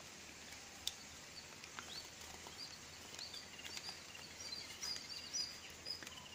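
Faint bird chirping: short high notes over a low background hiss, coming more often in the second half, with a few soft clicks.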